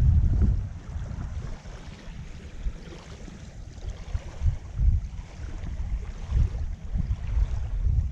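Wind buffeting an action camera's microphone: an uneven low rumble that rises and falls in gusts.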